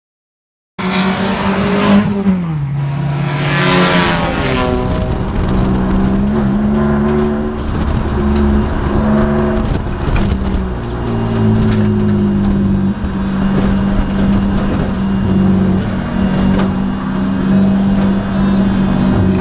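A 2002 Nissan Maxima race car's V6 engine running hard on track, cutting in abruptly. Its pitch drops about two seconds in, then holds steady at high revs. A hiss of tyre and wind noise is strongest in the first few seconds.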